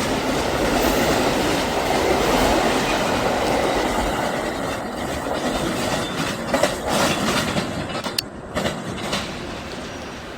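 A train passing at speed without stopping, its wheels clattering over the rail joints. The rumble fades after about six seconds, leaving scattered sharp clicks as the last cars go by.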